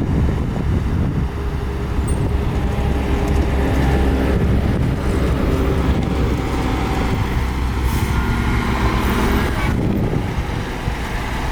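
Heavy diesel earthmoving machinery running steadily, a deep engine rumble.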